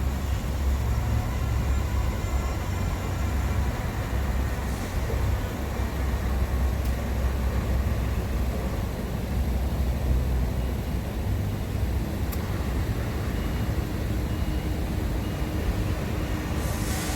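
Steady low rumble of heavy road vehicles running, wavering a little in level, with a few faint clicks.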